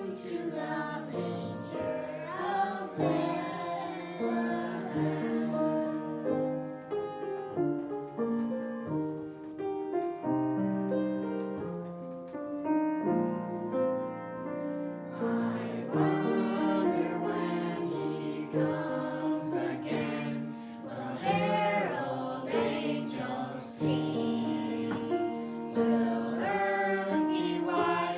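Women's and children's voices singing a Christmas song together, with piano accompaniment.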